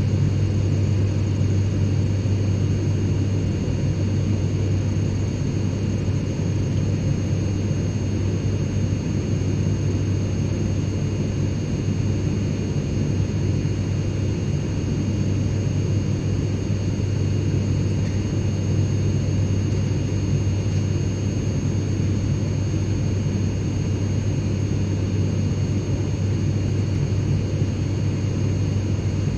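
Airplane cabin noise: an even, deep rumble with faint, steady high whine tones above it, unchanging throughout.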